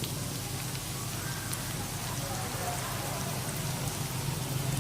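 Oil sizzling steadily as panko-breaded fish balls fry, a dense crackle with a few small pops.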